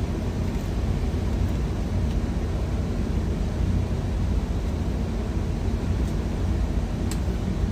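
Steady low rumble of an idling semi-truck engine heard inside the cab, with a faint click about seven seconds in.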